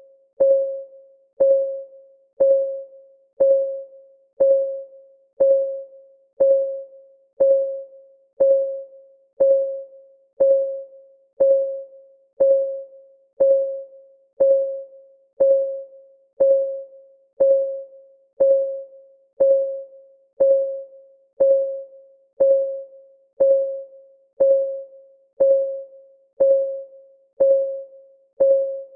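Clock ticking at one tick per second, each tick a sharp click with a short ringing tone that fades before the next.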